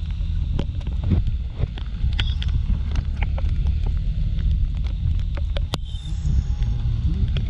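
Riding noise aboard a Kymco Like 125 scooter in the rain: a heavy, steady wind rumble on the microphone, with many scattered sharp ticks of raindrops striking it.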